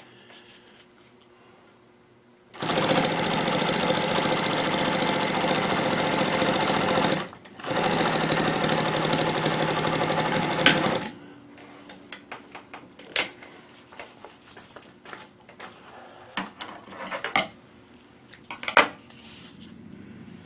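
Bernina/Chandler 217 industrial sewing machine on its servo motor, sewing a straight stitch through two layers of 1000-denier Cordura. It runs steadily for about four and a half seconds, stops briefly, then runs about three seconds more. Scattered clicks and handling noises follow.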